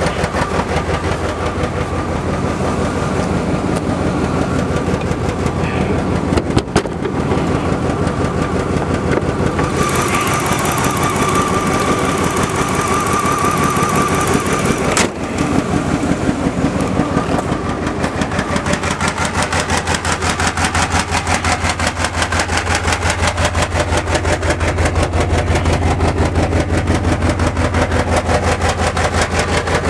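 1996 Chevy S-10 Blazer's 4.3-litre V6 running steadily with a loud, pulsing exhaust from a bad muffler, on a bad injector spider. Two brief knocks come through, about a quarter and halfway through.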